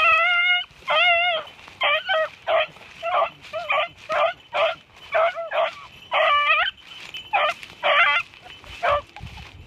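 Hunting dogs baying on a scent trail as they run game: about a dozen high, wavering bays in a steady string, roughly one every three-quarters of a second.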